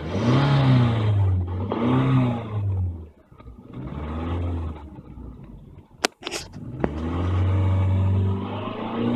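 2006 Toyota Camry Solara's 2.4-litre four-cylinder engine revved in short blips, the pitch rising and falling three times, then held up for about two seconds near the end. A sharp click about six seconds in.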